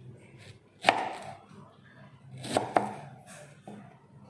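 Knife cutting a ripe mango against a cutting board: three sharp knocks, one about a second in and two close together in the middle.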